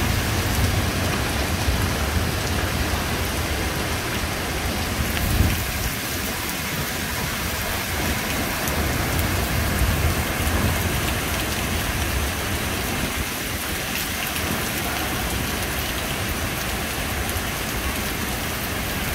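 Heavy rain pouring down, a steady dense hiss, with a low rumble that is strongest in the first five seconds or so.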